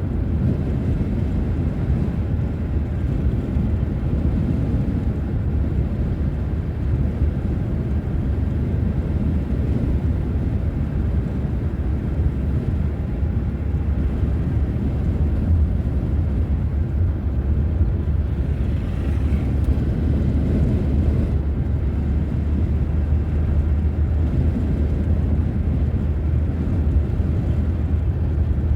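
Steady low rumble of a car driving along the road, engine and tyre noise with no sharp events. A faint, brief higher hiss rises over it about 19 seconds in.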